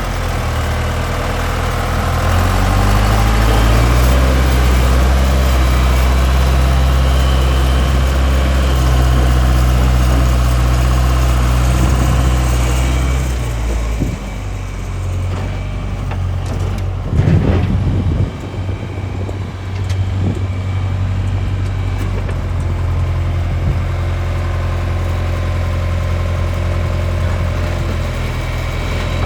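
John Deere 410B backhoe's diesel engine running, revved up for the first dozen seconds and then dropping back to a steady idle. A few sharp knocks come about midway through.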